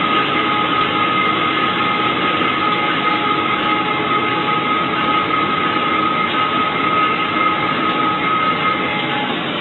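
Train running along the track: a steady rushing noise with a thin, high, steady tone through it, like wheel or brake squeal. It eases slightly near the end.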